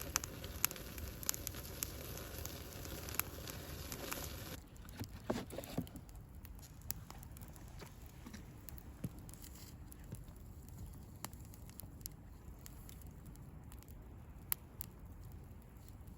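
Wood bonfire crackling, with scattered sharp pops and snaps over a hiss; the hiss drops away suddenly about four and a half seconds in, and the pops carry on more sparsely.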